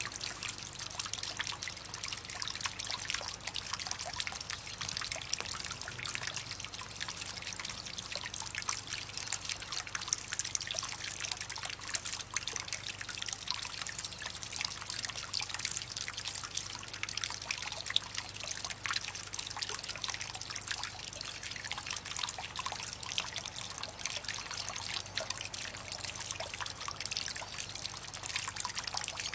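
Water trickling steadily with many small drips, as at a bird bath.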